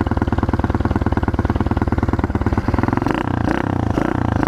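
Pit bike engine idling with an even, rapid putter just after being kick-started, then blipped a few times about three seconds in.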